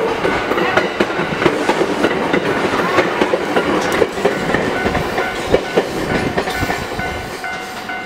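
Electric train running close by, its steel wheels clacking steadily over rail joints, easing off near the end as it moves away.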